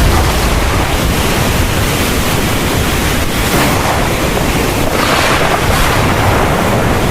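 Heavy rain pouring down in a thunderstorm: a dense, steady hiss with a low rumble underneath that swells slightly a few times.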